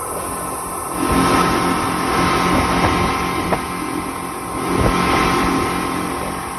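Speedboat under way: its engine runs steadily under a rushing noise that swells about a second in and again around the five-second mark.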